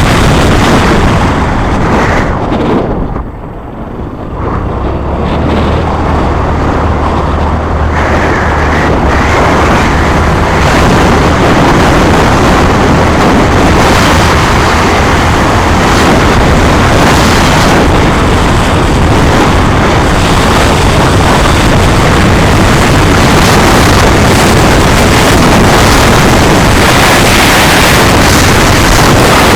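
Loud wind noise rushing over the microphone while a vehicle is moving, with a low steady hum underneath for a while. The noise dips briefly about three seconds in.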